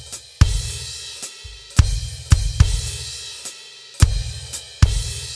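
Acoustic drum kit playing a transition figure of crash cymbal hits, each landing together with the bass drum and ringing out between strokes.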